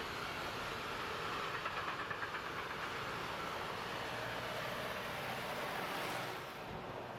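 A train rolling past on the rails: a steady rush of wheel and rail noise with a short rhythmic clatter about two seconds in, dropping away sharply about six seconds in as it clears.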